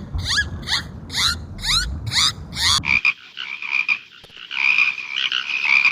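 An animal's repeated rising squeaks, about two a second, cut off after about three seconds. They are replaced by a dense chorus of frogs croaking.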